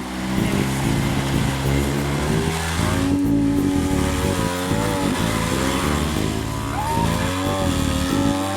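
Side-by-side UTV engine revving hard under load, its pitch rising and falling as it climbs over rocks.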